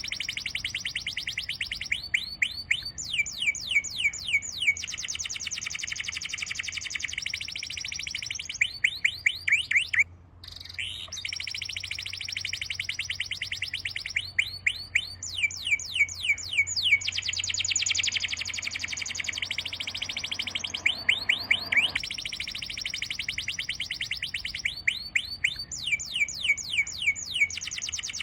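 A songbird singing: runs of quick down-slurred whistled notes alternating with long, rapid high trills, the phrase repeating every few seconds, with a brief break about ten seconds in.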